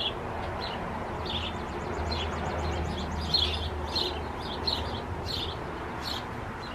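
Small birds chirping, short high chirps about two a second, with a faint rapid trill for a second or so near the start.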